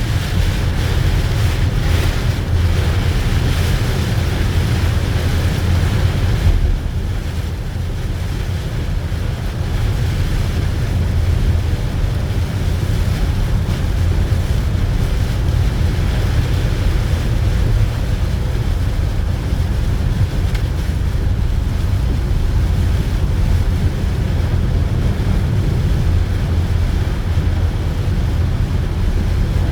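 Steady low rumble of a car driving in the rain, heard from inside, with a hiss of rain and tyre spray over it. The hiss eases a little about six seconds in.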